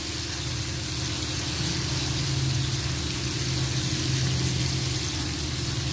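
Pork belly bacon strips sizzling in fat in a nonstick frying pan, a steady hiss, over a steady low hum.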